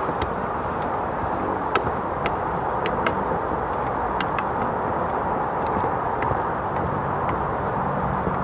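A spoon stirring potato and cauliflower in a Trangia pan, with scattered light clicks and scrapes against the pan, over a steady rushing noise.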